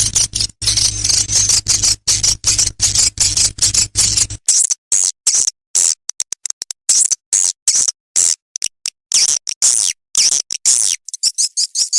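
Recorded swiftlet lure call: edible-nest swiftlets twittering in fast, dense strings of high, buzzy chirps. A steady low hum sits underneath for the first four seconds or so, then cuts off.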